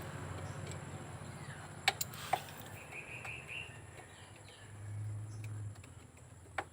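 Faint background sounds: two light clicks about two seconds in, a bird chirping briefly, and a low hum that swells and stops around five seconds in.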